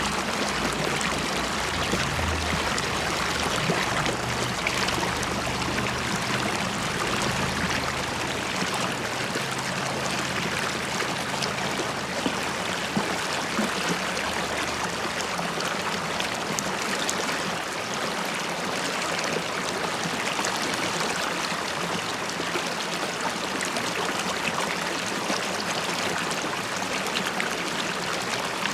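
River water flowing and bubbling steadily, with a faint low drone underneath that fades out about halfway through.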